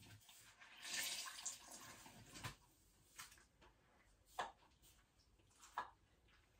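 Dirty water from a washing machine's drain filter splashing and trickling onto the floor, a soft hiss for about two seconds, followed by three faint knocks.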